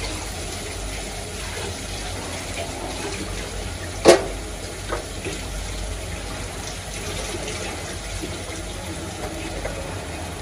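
Chopped onion and tomato sizzling steadily in oil in an aluminium kadai over a gas flame. A sharp click about four seconds in.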